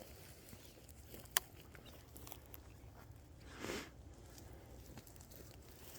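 Mostly quiet, with one sharp click about a second and a half in and a brief rustle a little past the middle.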